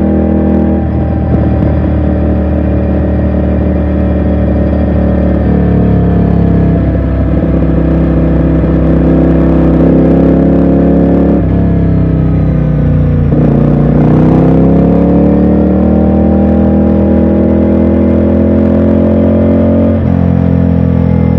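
Ducati Scrambler Sixty2's air-cooled L-twin engine pulling along on the road. About halfway through its pitch falls as the throttle closes, then it climbs steadily under acceleration before dropping suddenly near the end as it shifts up.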